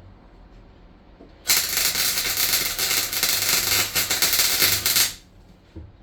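Welding arc crackling on the van's steel floor: one loud burst of about three and a half seconds that starts and stops abruptly, a weld run laid with the trigger held.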